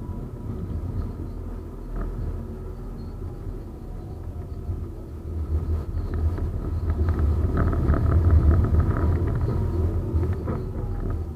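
71-931M Vityaz-M low-floor tram running along its track with a steady low rumble. It swells in loudness with a run of short clicks and knocks about two-thirds through, and a faint whine slides down in pitch near the end.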